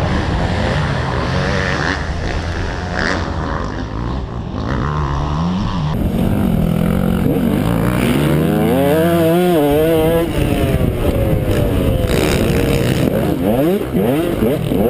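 Dirt bike engines running and revving, the pitch rising and falling in repeated sweeps. The sound changes abruptly about six seconds in.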